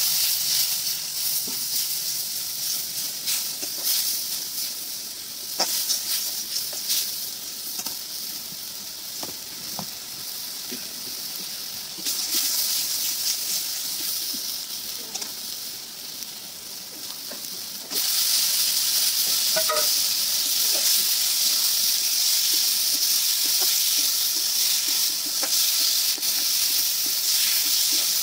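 Spice paste sizzling in hot oil in an iron karahi, scraped and stirred with a steel spatula, with scattered scraping clicks over a steady hiss. About two-thirds of the way through the sizzle grows suddenly louder, and by the end chunks of potato and vegetable are frying in the paste.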